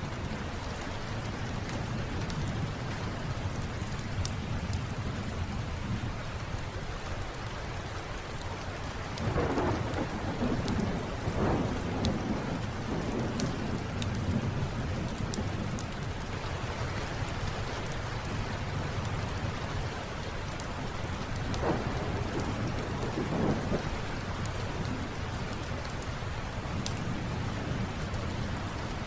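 Steady rain with thunder rolling twice, about a third of the way in and again about three quarters in, over scattered sharp crackles of a wood fire.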